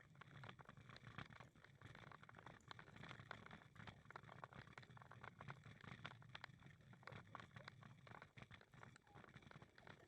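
Faint footsteps on a paved path, several short irregular steps a second, over a low steady hum.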